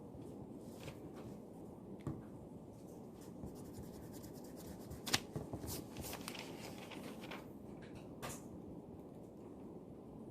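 Writing on paper: quick scratchy strokes and small taps while working through math problems, busiest in the middle, with a sharp click about five seconds in and another near the end, over a steady low room hum.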